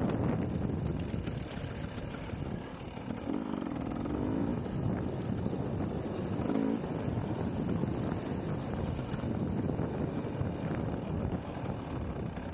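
Dirt bike engine running at low revs, its note rising and falling a few times.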